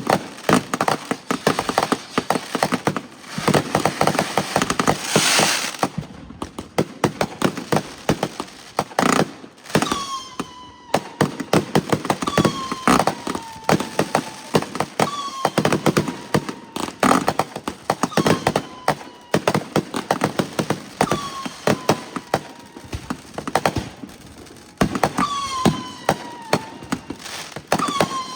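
Fireworks going off: a rapid, dense run of bangs and crackles. From about ten seconds in, a whistle that falls in pitch repeats about every one and a half to two seconds.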